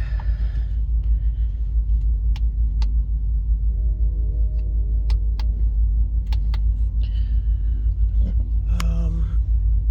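Steady low rumble, with a few faint clicks and a brief faint hum about halfway through.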